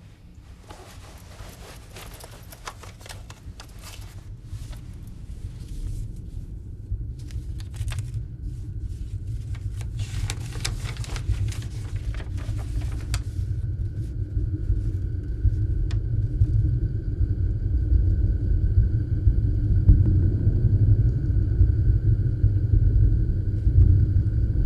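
A low rumbling drone that swells steadily louder, with rustling and clicking handling noises through the first half and thin steady high tones joining about halfway through. The drone cuts off suddenly at the end.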